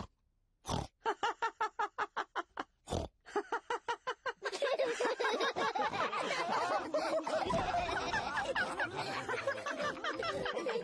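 Cartoon characters laughing: one voice in quick repeated bursts of laughter, then from about four and a half seconds in several voices laughing together.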